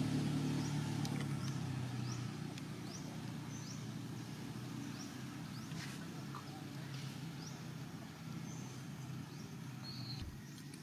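A motor vehicle's low engine hum fades away over the first couple of seconds. Short, high rising chirps repeat about once or twice a second throughout.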